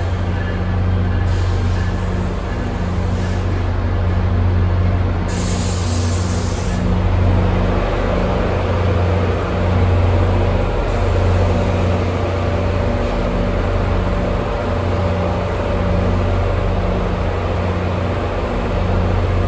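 NJ Transit passenger train rolling slowly past on the platform track: a steady low rumble and drone that swells and fades slowly, with a short hiss of air about five seconds in.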